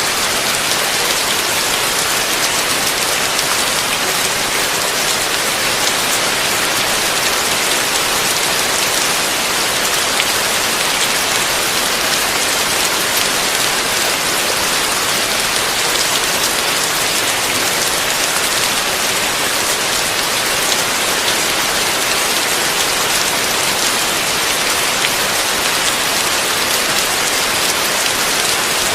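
Heavy rain falling steadily, an even hiss that does not rise or fall.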